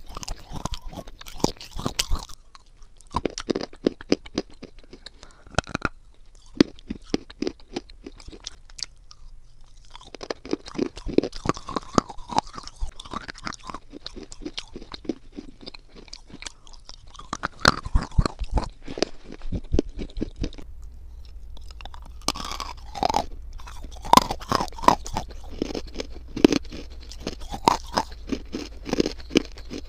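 Close-miked biting and chewing of dry clay chunks: dense bursts of crisp crunches separated by short pauses. About two-thirds of the way through, a low steady hum comes in beneath the crunching.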